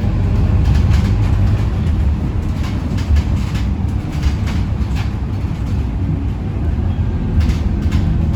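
Interior of a Scania K230UB diesel city bus under way: a steady low engine and drivetrain drone, with scattered rattles and knocks from the body and fittings, grouped about a second in, around three to five seconds in and again near the end.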